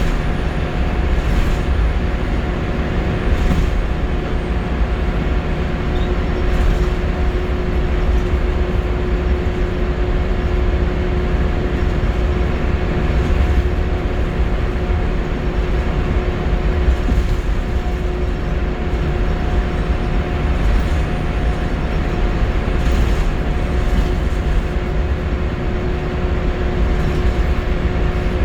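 Scania L94UB Wright Solar single-deck bus heard from inside the saloon, running at a steady speed: a deep, even engine and road rumble with a constant hum, and a few light rattles.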